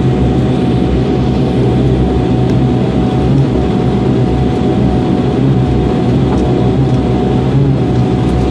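Aircraft in flight: steady engine and airflow noise with a low hum and a faint steady tone, unchanging in level throughout.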